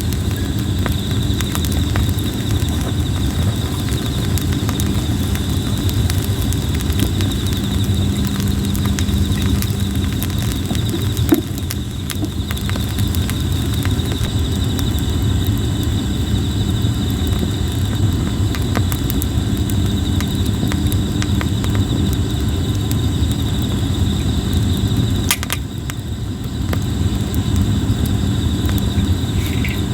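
Plum-wood campfire crackling with scattered small pops and one sharper pop about eleven seconds in, over a low steady rumble. Insects trill steadily and high throughout.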